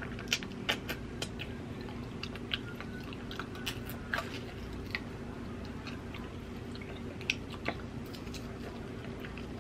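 Close-up chewing and mouth smacking while eating rotisserie chicken by hand: scattered short, wet clicks at an irregular pace. A steady low hum runs underneath.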